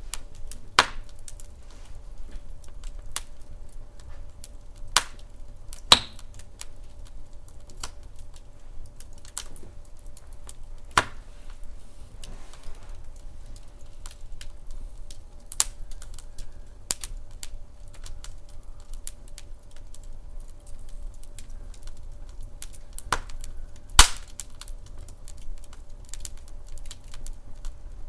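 Wood fire crackling: irregular sharp snaps and pops every second or few, the loudest about 24 seconds in, over a low steady rumble.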